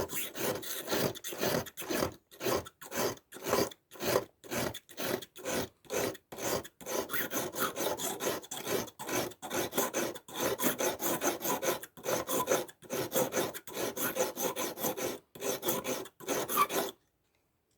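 Victorinox pocketknife blade stroked back and forth on a finer sharpening stone, a dry scraping about twice a second. It stops about a second before the end.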